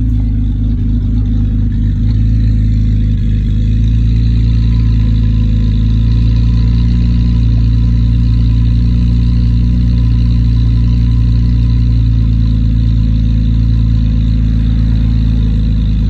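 BMW N52 inline-six engine with a muffler-deleted exhaust idling just after a cold start: a loud, steady, deep drone.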